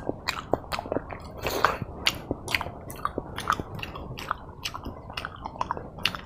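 Close-miked mouth chewing a mouthful of pork and rice, with irregular wet smacks and clicks several times a second.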